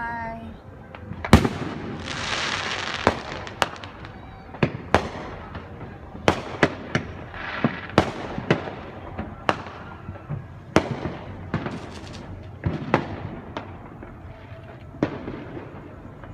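Fireworks going off: a long irregular string of sharp bangs and pops, the loudest about a second in, with crackling hiss spreading after bursts around two to three seconds in and again near eight seconds.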